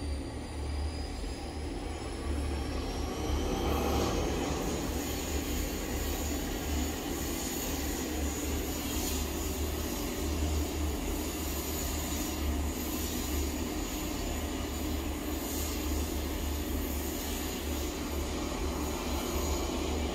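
Aircraft turbine running: a high whine that rises over the first few seconds and then holds steady, over a constant low rumble.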